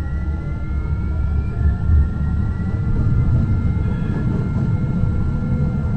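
Muni Metro light-rail train running, with a loud steady low rumble of the wheels on the track. Over the rumble there is a faint high whine that rises in pitch during the first second or so.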